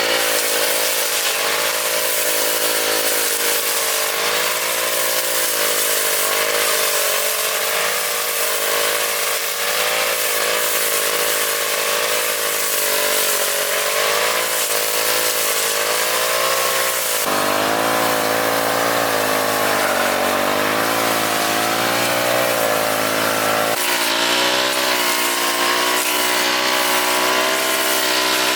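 Small petrol engine of a grass-cutting machine running steadily under load, its pitch wavering up and down as the cutting load changes, with sudden shifts in the sound about two-thirds of the way through and again later.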